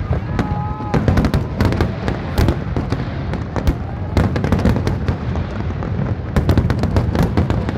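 Large fireworks display: aerial shells burst in quick volleys of sharp cracks and bangs, over a continuous low rumble of overlapping booms.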